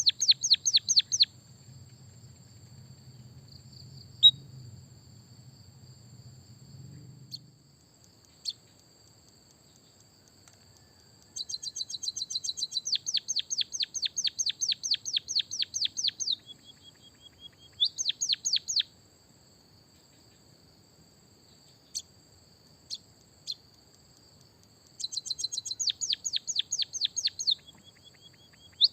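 Songbird singing in bursts of fast trilled high notes, each burst lasting from about one to five seconds, with a short held whistle after some bursts. This is a munia song with canary-style fill used as a training recording. A faint steady high whine runs underneath, and a low hum fades out after about seven seconds.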